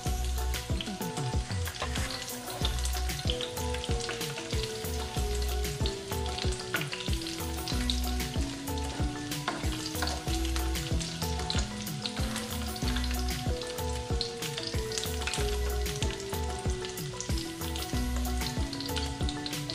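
Food sizzling and crackling in hot oil in a frying pan, stirred with a spatula around the middle. Background music with a repeating melody and a steady low beat plays under it.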